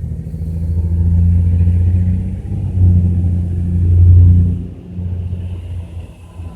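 British Shorthair cat purring loudly close to the microphone: a low, fast-pulsing rumble that swells and eases with each breath, softer near the end.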